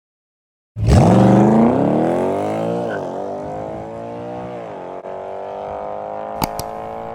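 Car engine accelerating hard, starting suddenly about a second in and climbing in pitch, with two gear shifts where the pitch drops briefly, then holding a steady drone at lower volume. Two sharp clicks come near the end.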